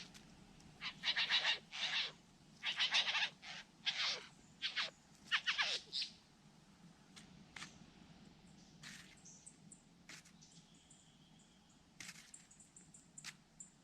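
A rapid run of loud, harsh bird calls, several sweeping down in pitch, through the first six seconds, followed by only faint high chirps.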